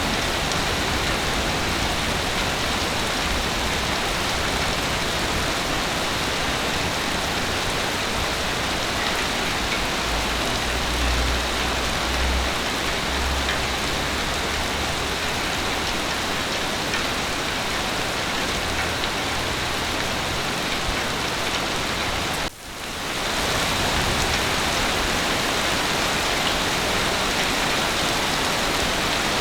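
Heavy rain falling steadily, a dense even hiss, with a low rumble around ten seconds in. About two-thirds of the way through the sound drops out for a split second and swells back, like a loop joint in the recording.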